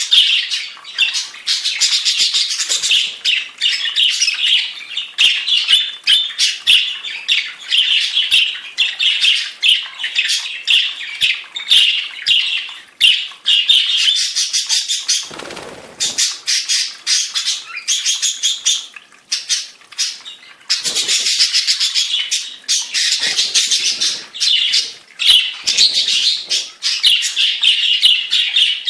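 Budgerigars chattering and warbling in dense, continuous chirps and clicks, in the breeding season. A brief lower, noisier sound cuts in about halfway through.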